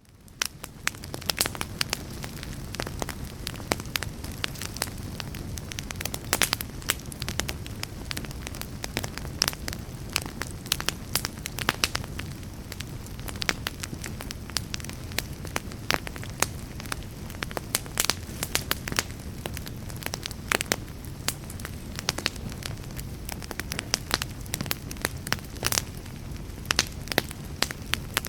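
Wood fire crackling, with frequent irregular sharp pops over a steady low rumble; the sound fades in over the first second.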